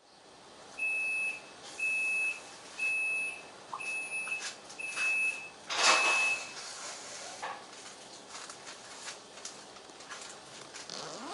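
Train door-closing warning: six high beeps about one a second, then a loud hiss as the sliding door shuts at the last beep, followed by quieter clatter.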